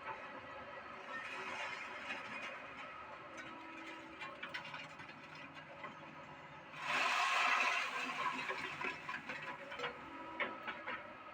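Doosan excavator's engine running steadily during work, with scattered knocks and clanks. About seven seconds in there is a louder rushing surge lasting about a second.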